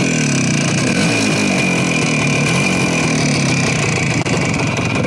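Motorcycle engine running steadily, its pitch wavering slightly up and down.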